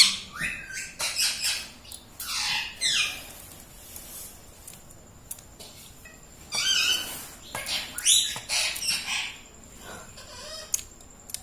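Rose-ringed (ring-necked) parakeet calling in a run of short, high squawks and chatter, several sliding down in pitch, in clusters with short pauses between.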